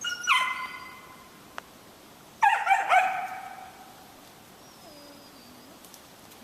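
Squirrel dog barking twice, about two seconds apart, each a high drawn-out yelp that falls in pitch: barking up at a squirrel it has treed.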